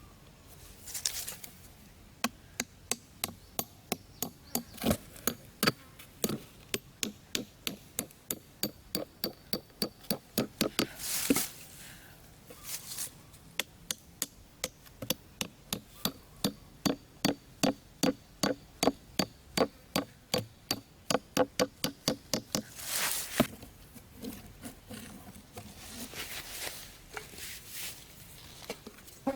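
Hand tool striking wood in a steady run of sharp knocks, about two a second, with a few short rustling noises between the runs.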